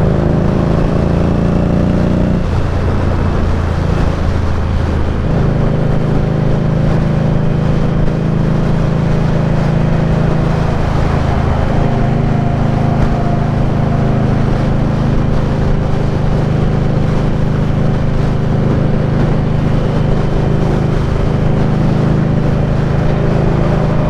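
Indian Scout Bobber's V-twin engine under way on the road: revs climb for the first two seconds, drop with a gear change, then settle into a steady cruise.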